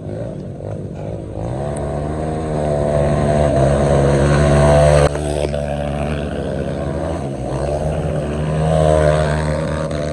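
Dirt bike engine revved hard in neutral: the pitch climbs and is held high, drops abruptly about five seconds in, then climbs again near the end.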